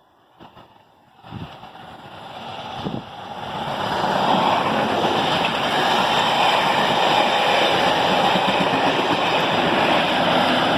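Class 37 diesel locomotive and its test train approaching and passing: the sound builds from about a second in to a loud, steady rush from about four seconds on.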